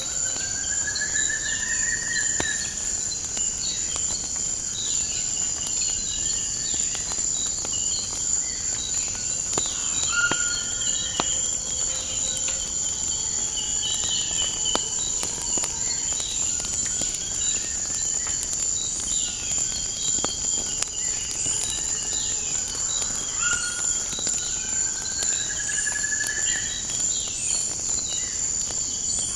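A steady, high-pitched insect chorus with birds calling over it: rising whistled notes near the start and again near the end, and scattered chirps. Faint crackling pops of a wood fire are dotted through.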